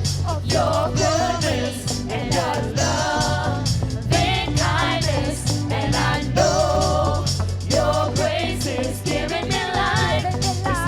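Live gospel worship song: several voices singing over a band with a steady bass line.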